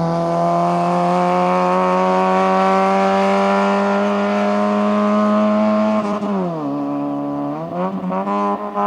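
Seat Marbella's small four-cylinder engine pulling hard up a hillclimb, its note rising steadily for about six seconds. The revs then fall sharply, as at a lift or gear change, and climb again, turning uneven near the end.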